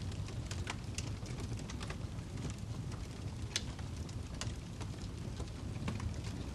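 Wood fire burning in a fireplace: a steady low rumble of flames with frequent sharp, irregular crackles and pops, one louder pop about three and a half seconds in.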